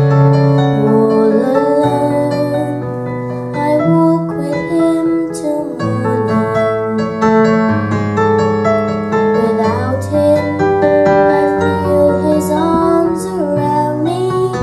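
Slow piano-keyboard music playing an instrumental passage of a ballad, with long held notes changing every second or two.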